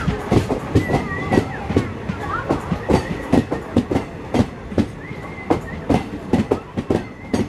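Express train wheels clattering over rail joints in a run of irregular sharp knocks over a steady rumble, with short high squeals at times.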